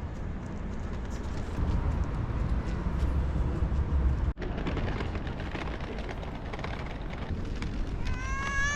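Low rumbling outdoor noise, loudest in the first half, cut off abruptly for an instant about four seconds in. Near the end a cat meows, rising then falling in pitch.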